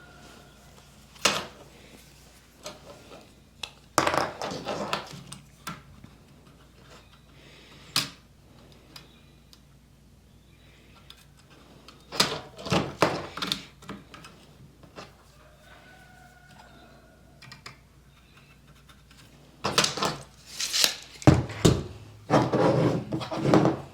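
Scrap lumber and hand tools being handled on a workbench during measuring and marking: scattered clicks and wooden knocks with short bursts of scraping, coming in clusters, the loudest and busiest near the end.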